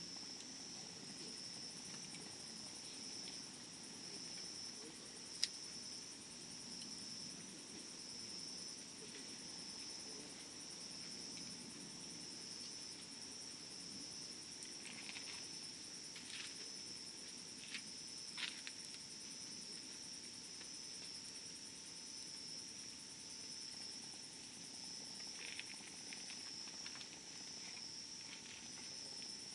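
Campfire burning, with occasional sharp pops and crackles: one loud pop about five seconds in and a few smaller ones later. A steady high-pitched insect chirring runs underneath.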